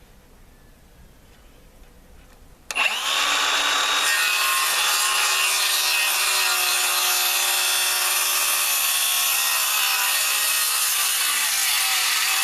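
Circular saw cutting deep through a wooden landscaping timber: it starts abruptly about three seconds in and then runs steadily under load with a high motor whine.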